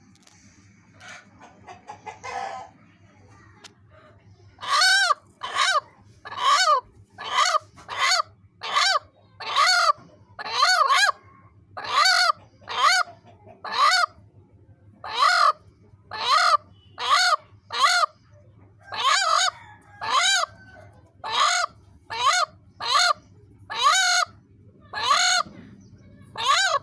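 A hen giving loud, bark-like calls about once a second, starting about five seconds in, each call rising and falling in pitch: a defensive call made to guard her egg.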